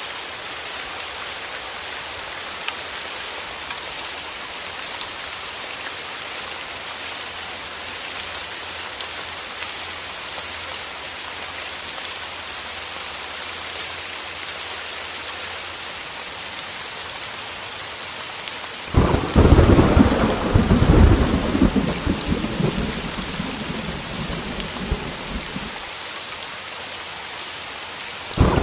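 Heavy rain falling in a steady hiss. About two-thirds of the way through, a sudden loud thunderclap breaks in and rumbles for several seconds before fading. A second peal of thunder starts right at the end.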